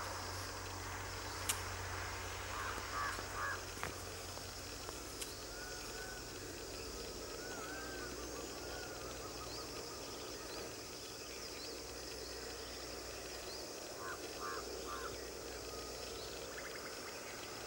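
Birds calling over a steady low hum of outdoor ambience: a quick group of three calls near the start and again about 14 seconds in, with scattered high chirps between. A single sharp click sounds about a second and a half in.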